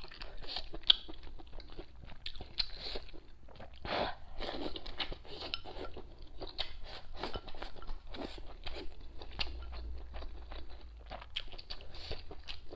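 A person chewing and biting hotpot-soaked old bean curd (dried tofu skin) with rice, giving a steady run of small crunching and clicking mouth sounds.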